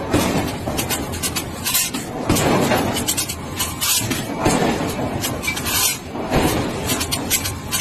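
Train wheels rolling on the rails: a loud, rough clatter that swells in bursts about once a second.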